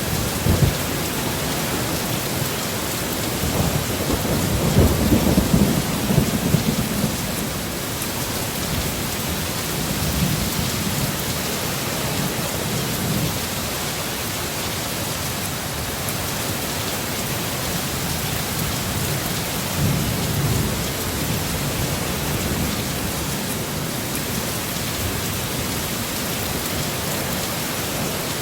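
Heavy storm rain in a steady hiss, with thunder rolling low underneath: a few sharp cracks at the very start, a long rumble a few seconds in, and weaker rolls around ten and twenty seconds in.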